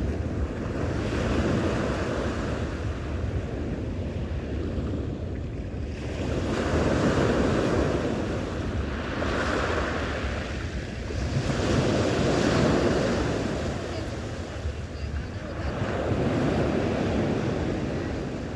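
Sea waves breaking and washing onto the shore, swelling and fading about every four to five seconds, with wind buffeting the microphone.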